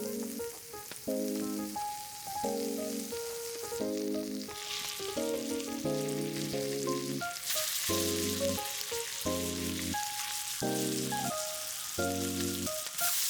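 Food sizzling as it cooks over heat, getting clearly louder about halfway through, under background music of steady, evenly repeated chords.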